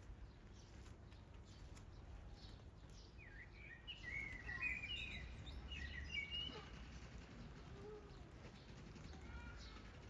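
A bird chirping in a quick burst of short, gliding notes about three to seven seconds in, over a faint, steady outdoor background noise.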